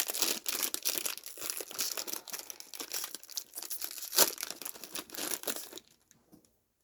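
Plastic snack bag crinkling as it is handled and torn open, with a sharper crackle about four seconds in; the crinkling stops about a second before the end.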